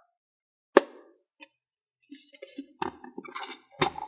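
Plastic slime-maker container with snap tabs being opened: a sharp click a little under a second in, then wet squelching and plopping of the freshly set slime, with more sharp clicks near the end.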